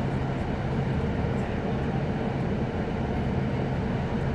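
Steady running noise inside a Class 156 'Super Sprinter' diesel multiple unit: a low engine drone under wheel and rail noise.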